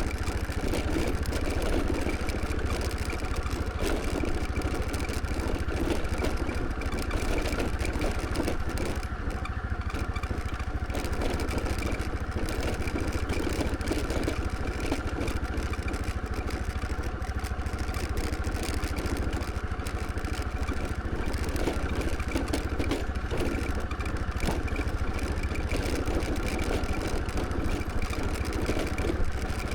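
Scooter engine running steadily while riding, with a constant low rumble of road and wind noise under a faint steady whine.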